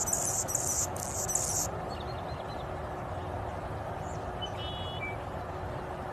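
A small bird's very high, thin squeaky call in three or four quick bursts in the first second and a half, then a few faint chirps and one short call around the middle, over a steady low background rumble.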